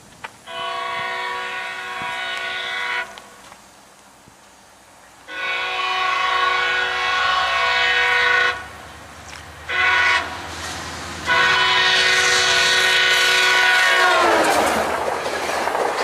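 SunRail commuter train's horn sounding the grade-crossing pattern: long, long, short, long, each blast a multi-note chord. The last long blast drops in pitch as the locomotive passes, and the wheels and cars pass close by with a loud rush to the end.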